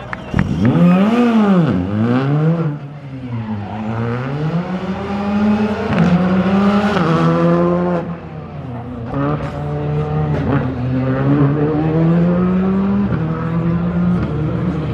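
Skoda Fabia R5 rally car's turbocharged 1.6-litre four-cylinder engine driven hard, revving up and lifting sharply near the start, then pulling through a run of gear changes, its pitch climbing and dropping again and again.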